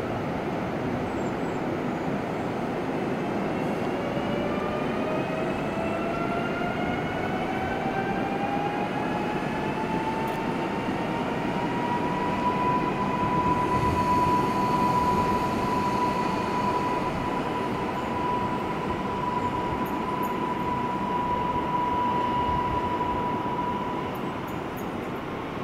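A train pulling away with the rumble of running gear, under a motor whine that rises in pitch for several seconds and then holds a steady high tone as it reaches speed.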